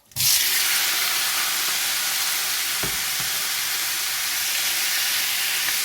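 Chicken pieces and raw prawns frying in hot sesame oil: a loud, steady sizzle that starts abruptly just after the start, with a couple of faint low knocks about three seconds in.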